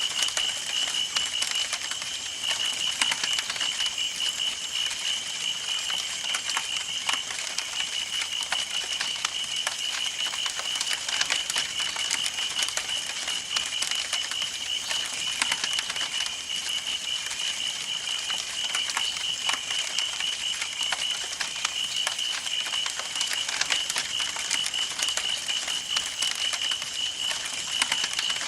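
Wood campfire burning, with dense irregular crackles and pops over a soft hiss. A steady, high, pulsing tone runs underneath.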